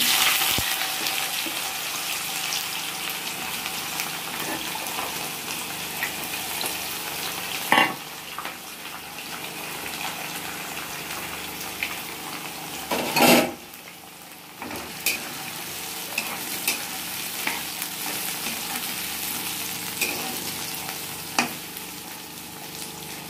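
Thinly sliced bitter gourd sizzling as it goes into hot mustard oil in a kadhai, loudest at first, then frying steadily. A spatula stirs the slices and knocks against the pan a few times, loudest about halfway through.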